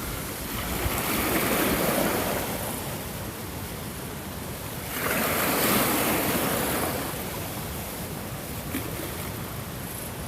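Ocean waves washing onto a shore, surging in twice and falling back to a steady hiss between.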